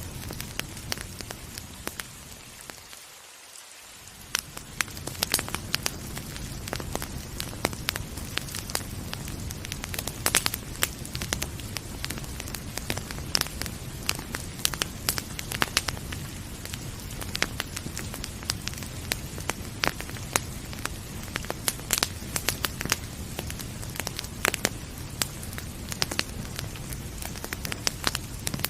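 Wood fire crackling with frequent sharp pops over a steady hiss of rain. About three seconds in the sound briefly drops away and thins, then returns.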